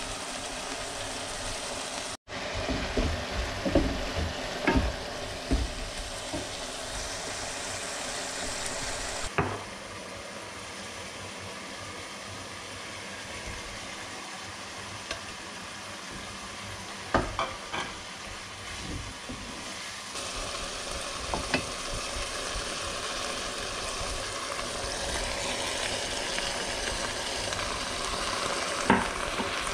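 Beef and vegetables sizzling as they fry in a pot, stirred with a wooden spoon that now and then knocks against the pot.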